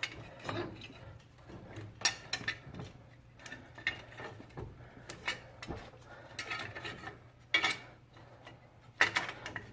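Irregular metal clinks, taps and scrapes of a front wheel hub assembly being worked into place on the knuckle while its electrical connector is fished through behind it, the sharpest knocks about two seconds in and near the end. A steady low hum runs underneath.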